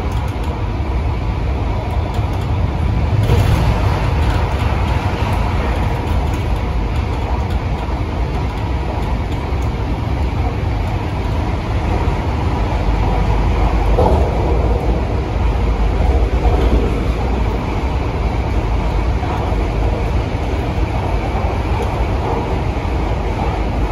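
MTR Tung Chung Line A-train electric multiple unit running along the line: a steady, loud rumble of wheels on rail with a faint steady hum over it.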